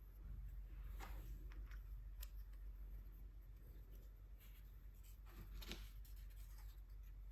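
Soft, scratchy brush strokes of gouache swatches being painted onto paper, with a few light taps, over a low steady hum.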